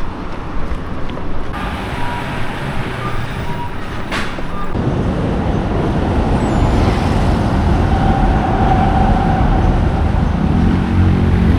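Road traffic with a heavy vehicle passing close, its low rumble growing louder from about five seconds in, and a rising engine note near the end.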